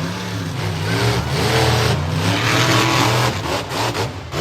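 Monster truck engine revving hard, its pitch rising and falling again and again, loudest through the middle and easing off near the end.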